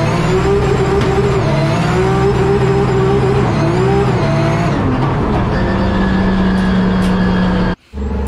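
In-car sound of a 900-hp BMW M3 E92 drift car's engine revving up and dropping back again and again while drifting. After about five seconds the revs settle to a steadier, lower note, and near the end the sound cuts off suddenly.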